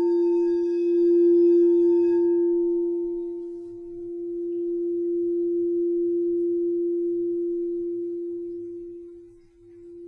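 Crystal singing bowl sounding one steady low tone that swells and fades in slow waves. Its high ringing overtones die away in the first couple of seconds, and near the end the tone almost fades out before rising again.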